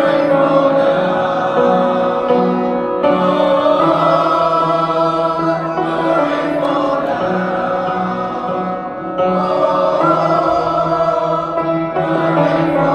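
Youth choir's baritone and tenor sections singing a rhythmic, chant-like song, with instrumental accompaniment under the voices.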